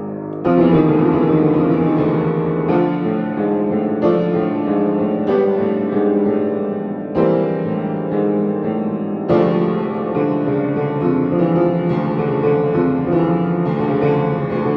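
Piano playing a dense passage of sustained chords, with a fresh loud attack every second or two.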